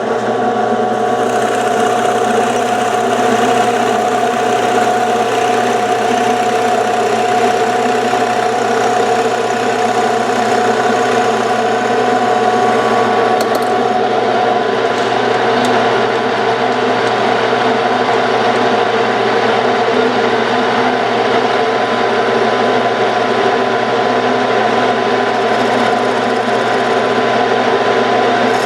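Metal lathe running steadily with a continuous motor hum while a wooden toy wheel centre is turned, drilled and counterbored on it.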